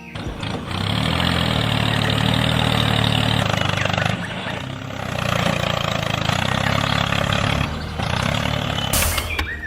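An engine running steadily, easing off briefly about four seconds in and again near eight seconds.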